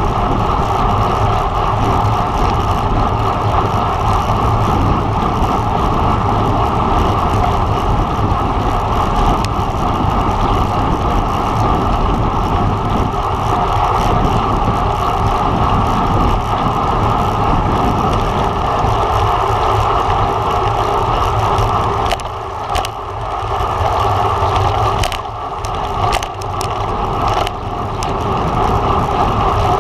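Steady wind rushing over the camera microphone and tyre noise from a road bike ridden at speed. The rush eases briefly a few times near the end, when a few sharp clicks come through.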